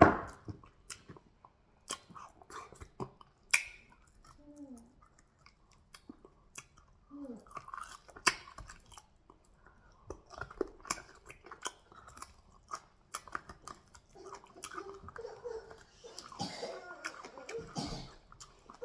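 Close-miked chewing and mouth smacking from eating fufu with goat meat and peanut soup, with sharp wet clicks scattered irregularly throughout and the loudest one right at the start.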